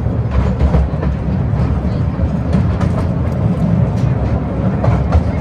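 Atal Express toy train running: a steady low rumble with scattered sharp clicks.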